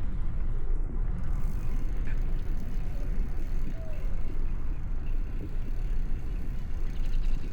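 Steady rumble of wind and road noise from a bicycle ride along a city street, with traffic running alongside.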